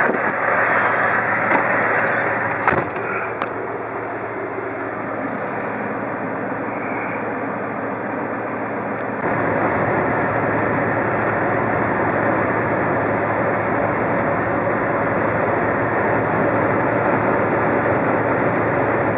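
Steady road and engine noise of a vehicle travelling on a highway, with a few short knocks in the first few seconds; it gets louder about nine seconds in.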